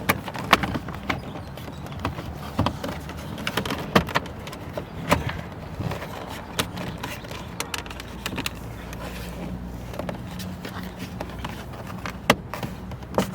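Fuse box cover on the side of a 2017 Chevrolet Cruze's dash being fitted back into place: a series of irregular sharp clicks and knocks as it is pushed and seated, over a low steady hum.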